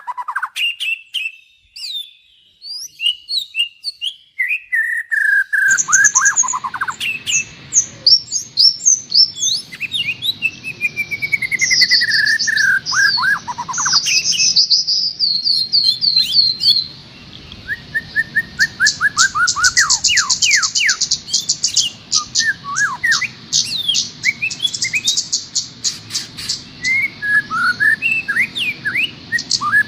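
Songbirds singing a masteran (tutor) song for training a caged trucukan-type bird: fast chirps, trills and runs of falling whistled notes, one after another. A steady background hiss comes in about six seconds in.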